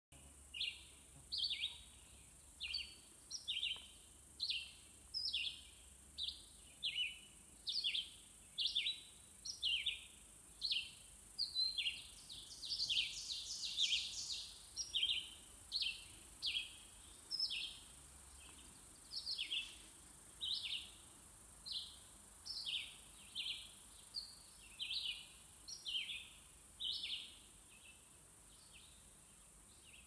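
Birds chirping in a forest: short, falling chirps repeated about twice a second, crowding together about halfway through and stopping shortly before the end. A faint steady high hiss runs behind them.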